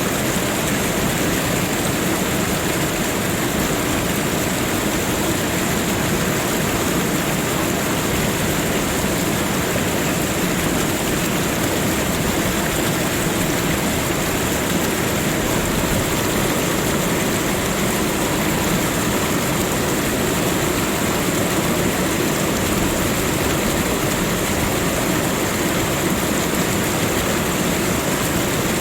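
Rushing water: a steady, unbroken wash of noise with no swells or pauses.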